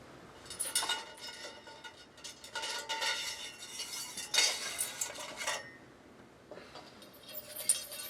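Metal parts of an old lamp clinking and rattling together as they are taken off and handled, in two bouts of clattering with short ringing tones.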